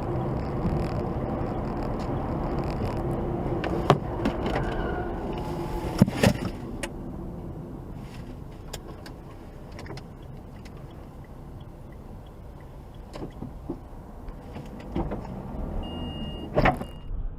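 Car engine and road noise heard from inside the cabin, with a few sharp clicks and knocks; it drops quieter about seven seconds in.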